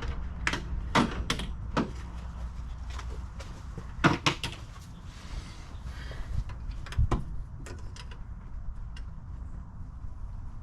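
Wrench and metal tools clicking and knocking against stuck fasteners as the carburetor on a 1952 Ford flathead V8 is worked loose for removal. There are a string of sharp metallic clicks, the loudest about four seconds in, over a steady low hum.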